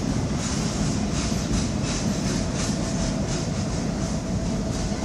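KCSM train cars rolling along the track: a steady rumble with the wheels clicking irregularly over the rail joints.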